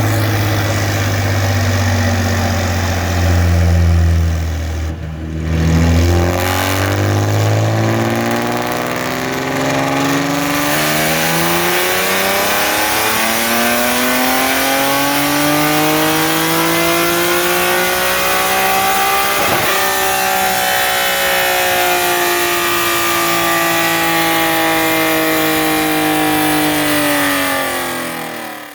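2020 Nissan 370Z's 3.7-litre V6 with long-tube headers and a muffler-delete catback, run under load on a chassis dyno. After a deep low rumble for a few seconds, the revs climb steadily for over ten seconds, then hold and ease off slightly near the end.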